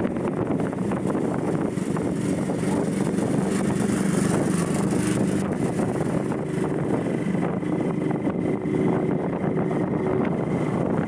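Motorcycle engine running steadily while riding, with road noise and wind buffeting the microphone.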